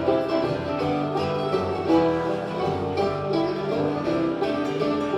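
A bluegrass band playing an instrumental break with banjo and guitar, and fiddle faintly underneath.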